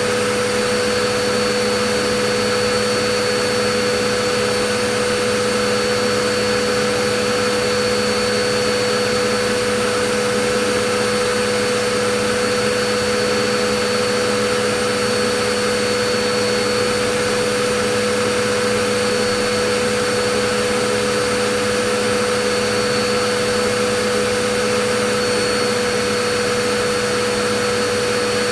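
Vacuum cleaner running steadily: an unchanging rush of air with a constant motor whine.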